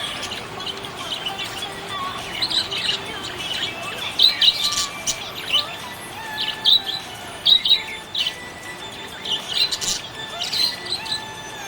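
Several small pet parrots chirping and chattering: a dense run of short, sharp chirps over continuous twittering, with a few louder squawks.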